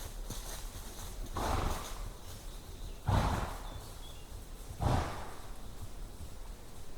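Horses in a forest: three short, noisy bursts from a horse about a second and a half apart, the later two the loudest, over a low steady background.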